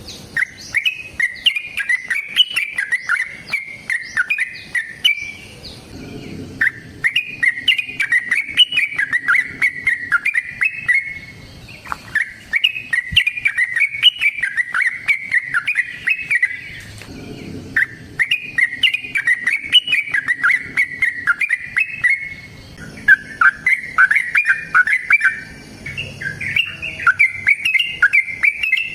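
Yellow-vented bulbul (trucukan) singing long, rapid chattering phrases of bubbly notes, each lasting several seconds with brief pauses between them. This is the long 'ropel' song that keepers use to provoke other trucuk birds into answering.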